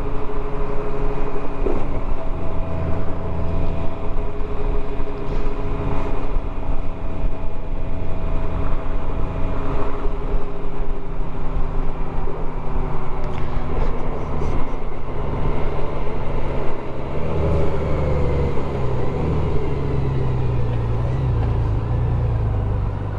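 Motorcycle engine running while riding, heard from the rider's position with road and wind noise. The engine note holds steady for most of the stretch, then shifts and falls in pitch near the end.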